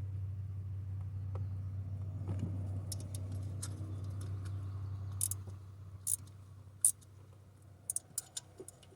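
Scattered sharp metallic clicks and taps of a hand tool and fastener being worked at a stubborn exhaust stud hole on a big-block engine. A steady low hum fades out about five seconds in.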